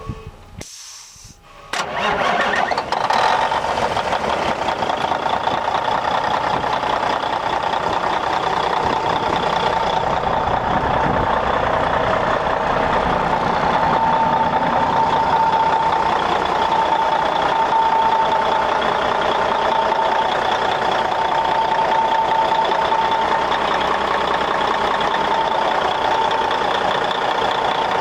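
A 1994 International 9400 truck tractor's diesel engine starts about two seconds in, then runs steadily at idle.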